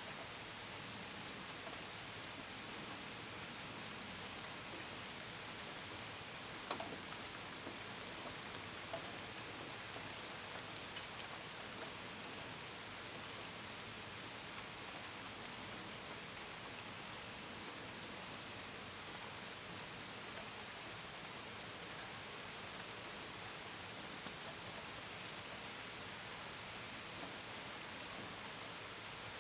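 Steady gentle rain falling, with a few sharper drop taps about a third of the way in. Crickets keep up a continuous pulsing high chirp through the rain.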